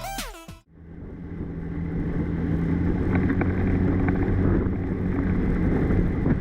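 A vehicle engine running at a steady pace under low wind and road rumble, fading in about a second in after a short end of music.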